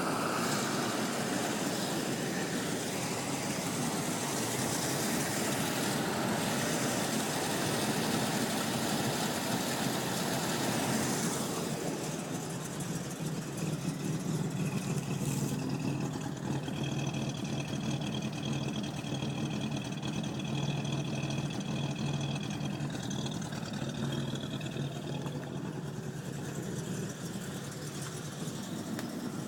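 The 1981 Buick Electra 225's 4.1-litre carbureted V6 idling steadily. About twelve seconds in, the high hiss drops away and the engine sound turns duller.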